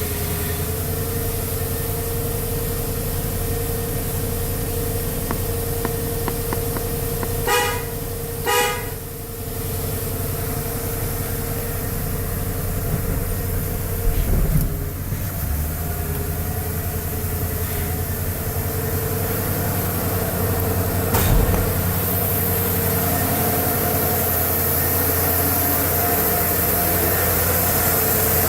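1991 Ford F-150's 5.0-litre V8 idling steadily shortly after a cold start. About a quarter of the way in, a horn gives two short toots about a second apart, and two brief thumps come later.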